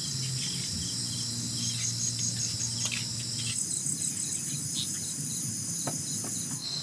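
Night insect chorus of crickets and similar insects: steady high trilling with rapid repeating pulses, which shifts in pitch about halfway through. A low hum sits under the first half, and a few faint clicks come near the middle and end.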